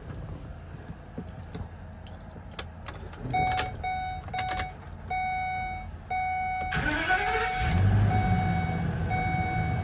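A few clicks, then a dashboard chime beeping over and over; about seven seconds in the starter cranks for about a second with a rising whine and the Ford 6.8L Triton V10 gasoline engine catches and settles into a steady idle, the chime still beeping.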